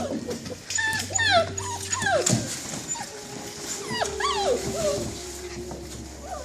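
Puppies whimpering and yipping: a string of short, high squeals that slide up and down in pitch.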